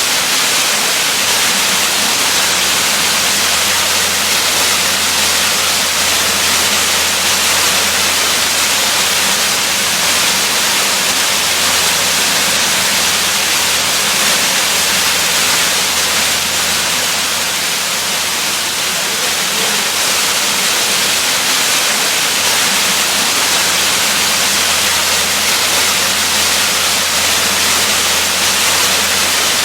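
Waterfall: falling water rushing steadily, an even hiss that does not change.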